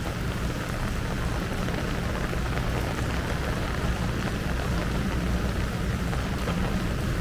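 Heavy rain pouring steadily, an even hiss over a steady low rumble.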